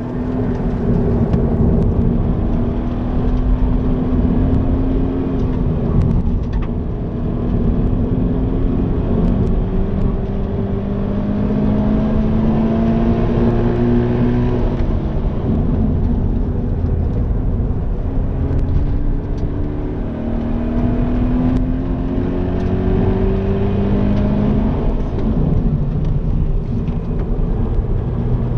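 Toyota GT86's flat-four engine heard from inside the cabin, pulling hard as the revs climb and dropping in pitch at each upshift, several times over.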